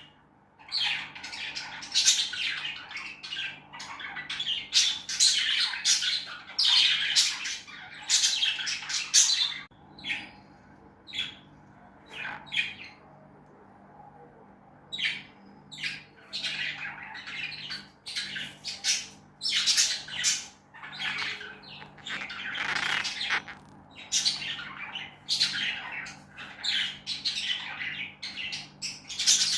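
Pet lovebirds squawking and chirping in quick, harsh calls, with a lull of a few seconds near the middle before the calls pick up again. A faint low hum runs underneath.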